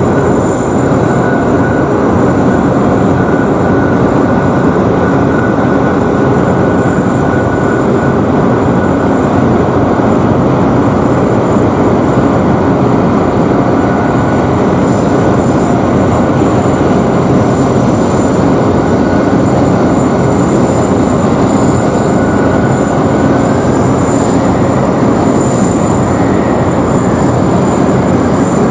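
Twin General Electric F110 turbofans of an F-15QA fighter running loud and steady, a continuous jet rumble with a high whine over it.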